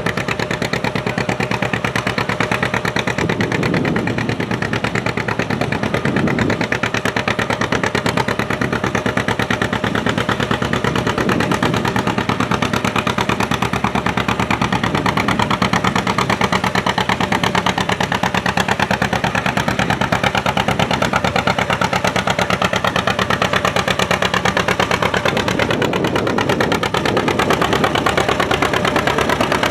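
Antique farm tractor engine running steadily and loud with a fast, even exhaust beat, working under load while pulling the weight-transfer sled.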